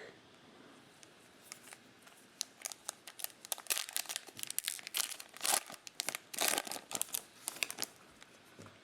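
Trading-card pack wrapper being torn open and crinkled by hand: irregular crackles and rips that start about a second and a half in and die away near the end.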